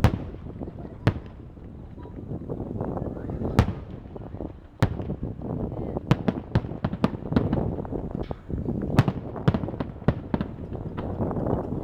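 Aerial fireworks shells bursting with sharp bangs over a low rumble. A few single bangs come first, then from about halfway a rapid volley of many bangs in quick succession.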